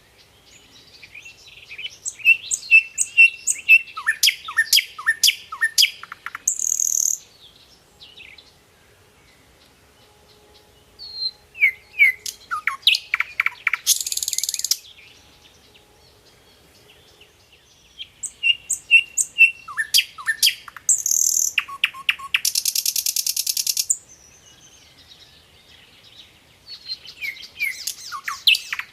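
Nightingale singing: four separate phrases with pauses of a few seconds between them. Each phrase mixes rapidly repeated whistled notes, quick falling sweeps and a dense buzzy trill.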